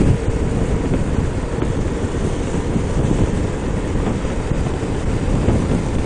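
Steady wind rush and road noise buffeting the microphone on a moving motorcycle.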